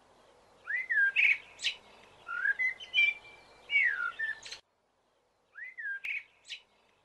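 A songbird singing short phrases of slurred whistles and quick trills. The sound cuts off abruptly about four and a half seconds in, and one more phrase starts a second later.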